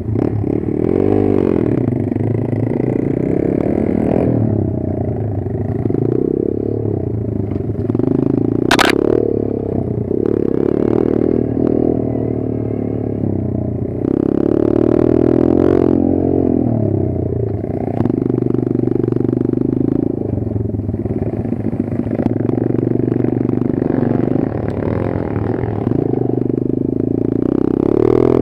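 Kayo 140 pit bike's small single-cylinder four-stroke engine running under riding load, its revs rising and falling again and again, with clatter from the bike and a sharp click about nine seconds in.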